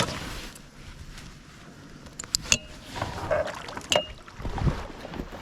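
A few sharp clicks and knocks of gear being handled aboard a kayak, a couple with a short ring, over low water and wind noise.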